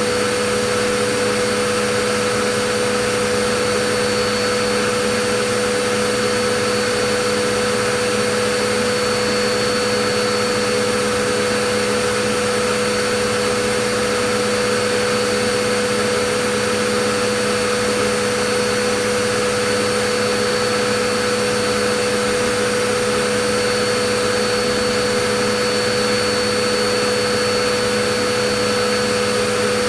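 Vacuum cleaner running steadily, a continuous whoosh of rushing air with a constant motor whine.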